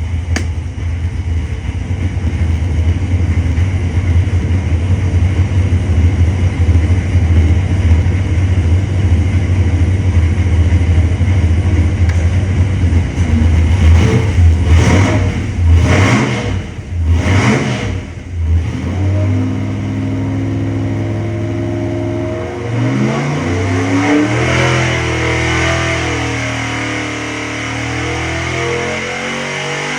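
LS V8 engine running on an engine dyno with a loud, steady low rumble, then revved sharply three times in quick succession about halfway through. Guitar music then takes over for the rest.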